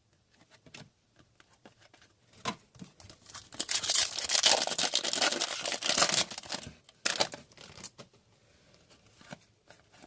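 Plastic card pack wrapper being torn open and crinkled, a dense crackling rustle for about three seconds in the middle, with lighter rustles and clicks of card handling around it.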